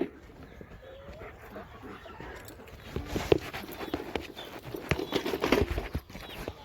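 A German Shepherd close by, panting and moving about, with irregular scuffs and knocks that get busier about halfway through.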